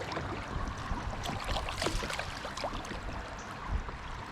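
Creek water splashing and trickling around a canoe, with many small irregular splashes and knocks.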